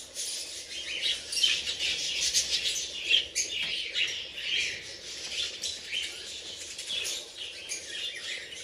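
Budgerigars in an aviary chattering: many quick, high chirps and warbles overlapping.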